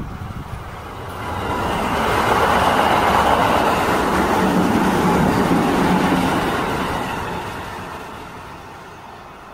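Red-and-white electric passenger train passing close by on the track: the rumble of wheels on rail builds over the first couple of seconds, stays loud through the middle, and fades steadily as the train moves away.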